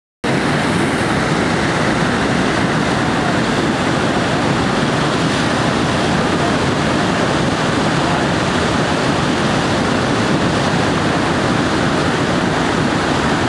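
Loud, steady rush of whitewater from the Skookumchuck tidal rapids, cutting in abruptly just after the start.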